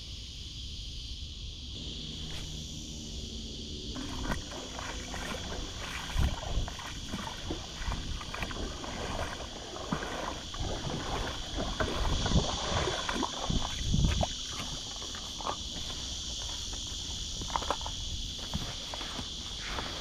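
Insects buzzing steadily, with irregular knocking and water sloshing from a small fiberglass rowboat being handled in the water. Two heavier thumps come about six and fourteen seconds in.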